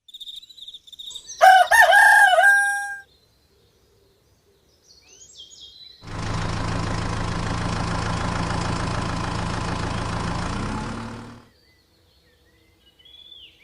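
A rooster crows once, loud, between faint chirps of small birds. Then a machine or engine runs with a steady low hum for about five seconds and cuts off abruptly, and the birds chirp faintly again.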